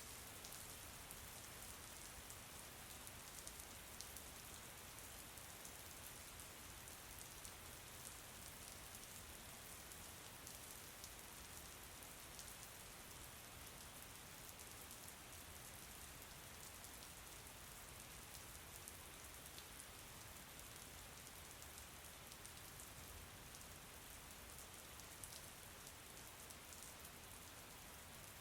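Soft, steady rain falling, with faint ticks of single drops scattered through it.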